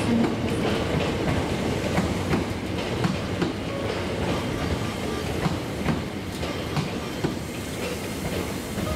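Hankyu 9300-series electric train running past along the station platform: a steady rumble with irregular clacks of the wheels over the rail joints, easing off slightly toward the end.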